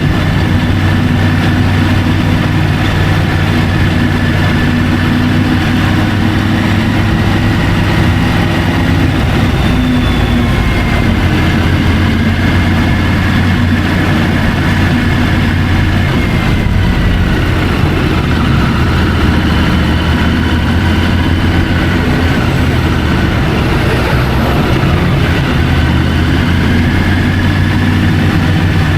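Triumph Tiger 850 Sport's inline three-cylinder engine running at a steady, low-pitched note, its pitch drifting slightly now and then, heard through the bike-mounted camera.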